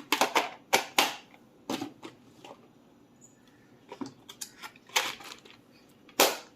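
Plastic storage boxes being handled and set down: a string of sharp, irregular clicks and knocks, several close together in the first two seconds, then more spread out, with one loud knock near the end.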